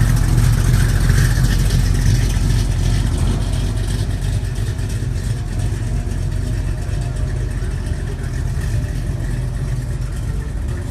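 A vehicle engine idling close by with a low, steady rumble that slowly gets quieter.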